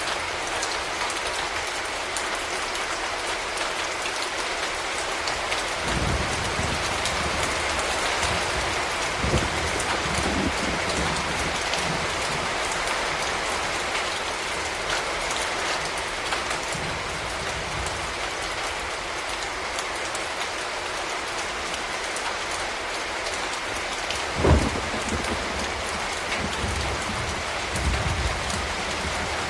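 Steady rain falling and pattering on surfaces, a dense even hiss. A few short low rumbles come and go under it, with one brief low thump near the end.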